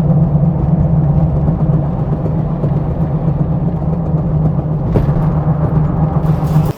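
Truck engine and road noise while driving: a steady, loud drone that cuts off suddenly near the end.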